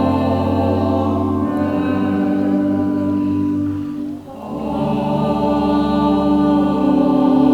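Sustained chords of church music with a deep bass, breaking off briefly about four seconds in before the next chord begins.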